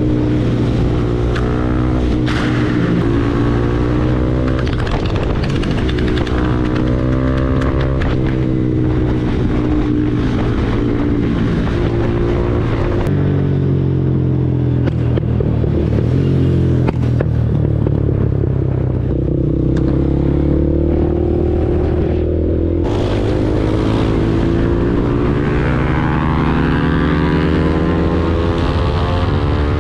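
KTM Duke 390's single-cylinder engine through an Arrow full-system exhaust under way at speed, its revs rising and falling with gear changes. Through the middle stretch the engine note holds steadier, then it climbs again in hard acceleration near the end.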